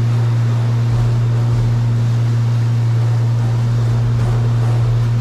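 Jet ski engine running steadily with an even, unchanging low hum.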